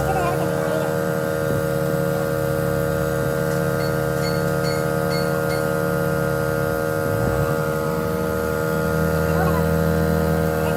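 Loud, steady machine hum made of several held tones. A lower drone drops away about seven seconds in and comes back about a second and a half later.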